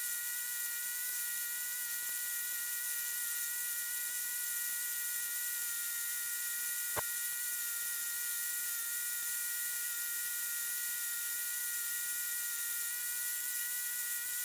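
Steady hiss and a faint constant electrical whine on a cockpit radio/intercom audio feed between transmissions, with a single short click about seven seconds in.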